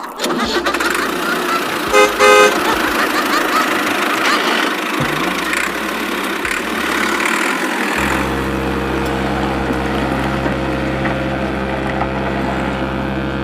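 Vehicle horn beeping briefly about two seconds in over a steady rushing noise, then an engine starting to run with a steady hum from about eight seconds in.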